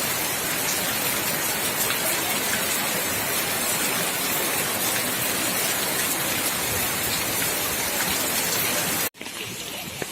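Rain falling, a steady even hiss. It cuts off abruptly about nine seconds in, leaving a much quieter background.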